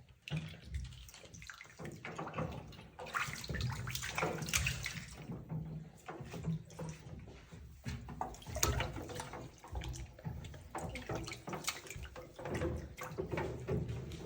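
Bathwater sloshing and splashing in a bathtub as a pet monkey moves and paddles around in it, in irregular swishes.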